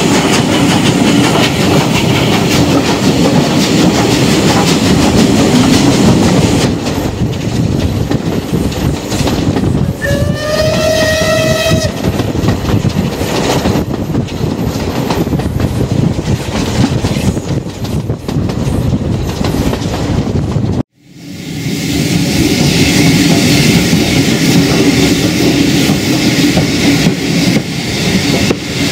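Passenger train running, heard from an open carriage window: steady wheel-on-rail clatter and rushing air. About ten seconds in, the train's whistle sounds once, a single slightly rising tone lasting about a second and a half. About two-thirds of the way through, the sound cuts out for a moment and comes back.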